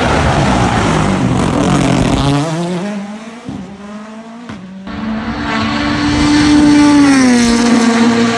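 Rally cars racing past at full speed. One engine's note falls away in the first few seconds. After a couple of abrupt cuts, a second engine grows loud and its pitch steps down near the end.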